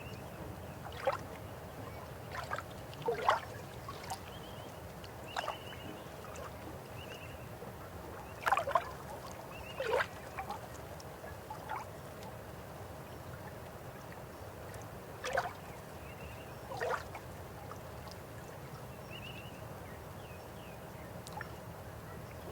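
River water flowing steadily, with occasional louder splashes and gurgles about eight times, and short high chirps now and then.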